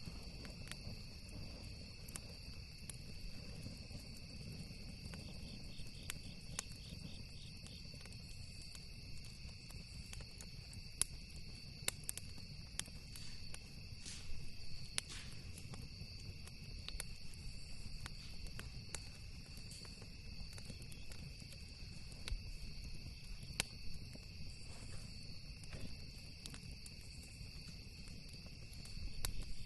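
Campfire crackling with scattered sharp pops over a steady, continuous chorus of crickets trilling and a low rumble.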